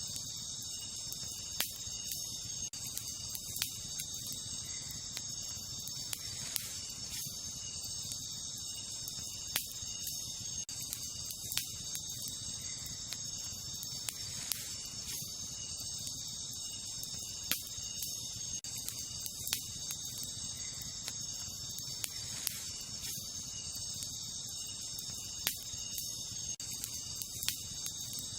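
Wood campfire crackling, with sharp irregular pops every second or two, over a steady high-pitched chorus of night insects.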